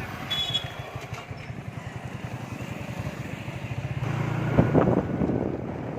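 Yamaha R15 single-cylinder motorcycle engine running while riding, with a fast, even pulsing note that gets louder about four seconds in.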